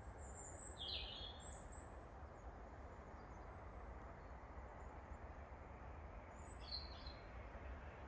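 Faint bird chirps, a short cluster about a second in and another near the end, over a steady low rumble of background noise.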